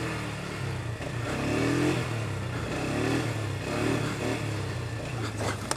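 Quad bike (ATV) engine running under way, revving up briefly several times.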